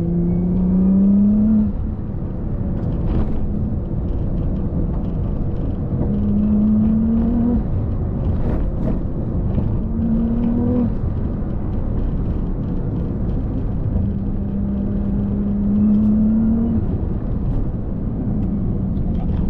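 A vehicle's engine under way, its note rising several times as it accelerates and dropping back between, over steady rumbling road noise.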